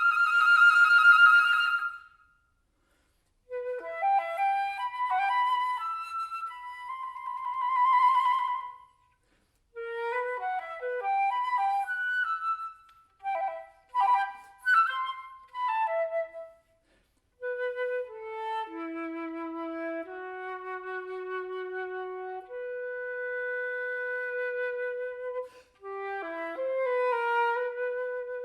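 Flute playing solo: a loud held high note with a fluttering quiver, a pause, quick runs of short notes broken by brief silences, then slower held notes in its low register.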